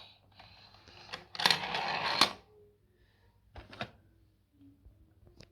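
Plastic toys clattering: a rattling burst of clicks about a second and a half in, and a shorter clatter near four seconds.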